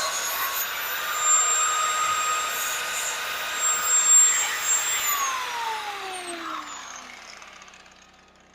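High-speed cut-off wheel cutting through the old exhaust hanger, a steady whine with the grinding of the cut and louder peaks near four seconds in. About five seconds in the tool is released and spins down, its whine falling in pitch and fading out.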